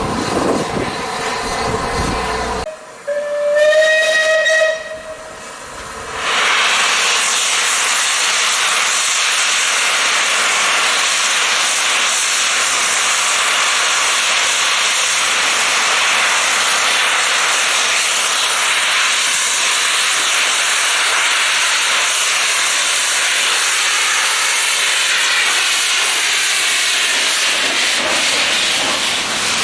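Steam locomotive whistle sounding one short note about three seconds in, a single tone rising slightly in pitch, followed by a steady loud hiss of steam escaping from the locomotive.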